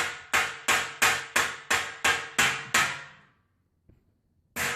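Steady rhythmic banging on a hard object, about three sharp strikes a second, each ringing briefly as it fades. The banging stops a little past three seconds in and starts again near the end.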